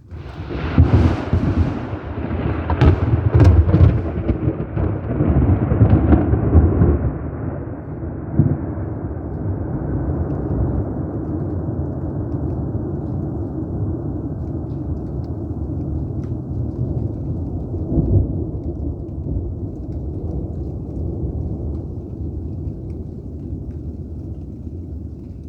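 Thunderclap: a sudden sharp crackle of several cracks over the first few seconds, then a long low rolling rumble that slowly fades, swelling briefly once near the middle.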